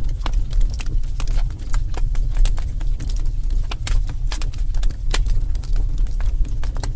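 Wood fire burning in a fireplace: irregular crackles and snaps, several a second, over a steady low rumble.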